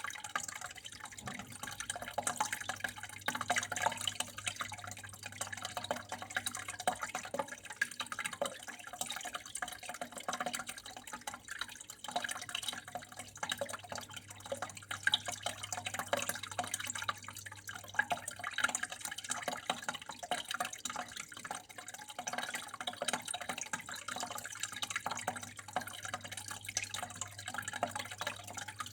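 Water flowing and trickling steadily with many small drips and splashes, over a low steady hum.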